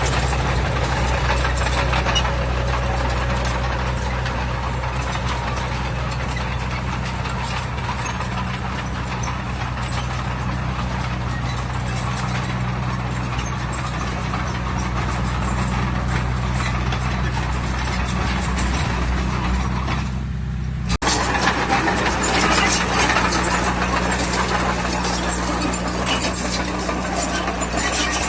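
Heavy-equipment diesel engine running steadily under work. About 21 seconds in there is an abrupt break, after which the engine is louder and rougher.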